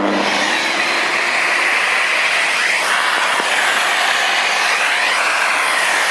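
Festool CTM 55 dust extractor switched on and running with a steady loud rushing whoosh. The pitch of the airflow wavers slowly as the suction changes.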